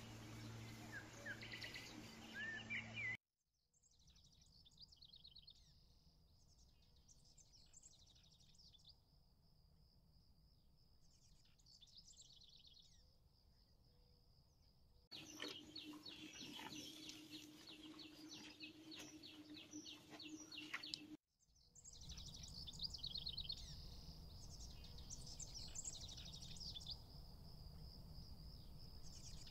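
Faint small-bird song: repeated quick high trills and chirps, broken by two short drop-outs about three and twenty-one seconds in. A low hum sits under the first few seconds and a steady low tone under the middle stretch.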